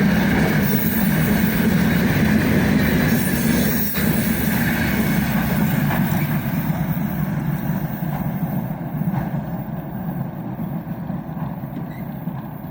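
Freight train wagons rolling along the rails, a steady running noise that gradually fades toward the end.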